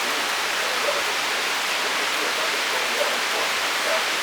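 Torrential thunderstorm rain pouring down in a steady hiss.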